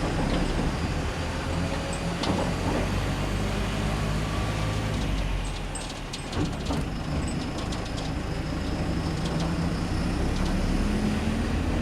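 A heavy truck's diesel engine running steadily, with sharp rattling clicks for a couple of seconds in the middle. The engine note rises slowly near the end.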